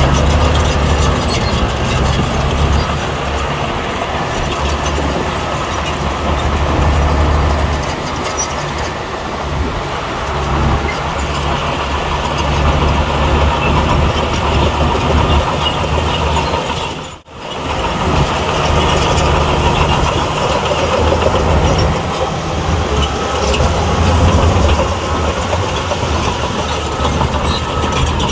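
Bulldozer's diesel engine running under load while it pushes soil, its level swelling and easing at times. The sound cuts out briefly about two-thirds of the way through.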